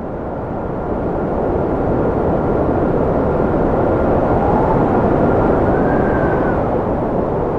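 Wind blowing with a steady rushing noise and a thin, high whistling howl that wavers in pitch. It grows louder over the first couple of seconds.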